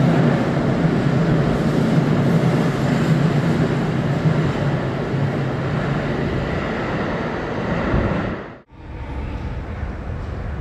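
Keikyu limited express train running through an underground station without stopping: a loud, steady rumble of wheels on rail that slowly eases as the train leaves. About eight and a half seconds in, the sound cuts off abruptly and gives way to a quieter, steady background.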